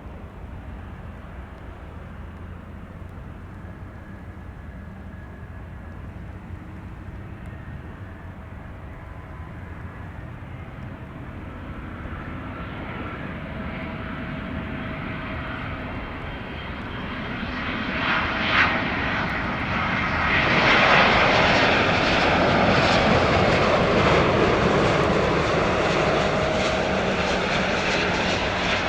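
Jet airliner's engines, rising slowly from a distant rumble to a loud, steady rushing roar about two-thirds of the way through.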